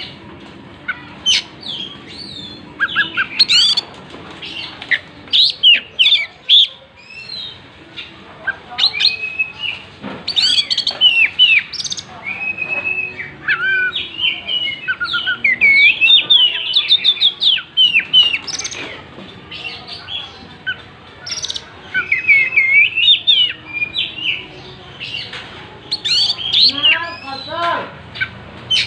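Oriental magpie-robin (kacer) singing continuously: a varied, rapid song of sharp whistles, chirps and trills with short pauses between phrases, and a quick run of falling notes near the end.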